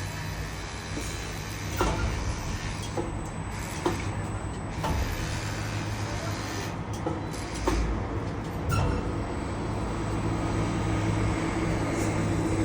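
Heavy engine running steadily, with about half a dozen short metallic clanks from steel reinforcement mesh being handled during unloading.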